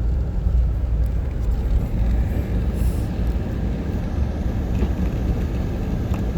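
Car driving: steady low rumble of road and engine noise.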